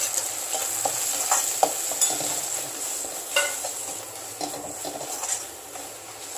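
Onion and tomato sizzling in oil in a kadai while a perforated steel spatula stirs and scrapes through them, with scattered clicks of the spatula against the pan, as the spice powders are being sautéed in.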